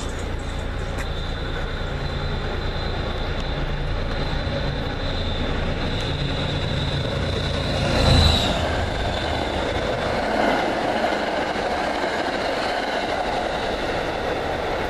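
Diesel commuter train passing beneath: a steady rumble as it approaches, loudest as it passes under about eight seconds in, then the rush of the cars rolling away.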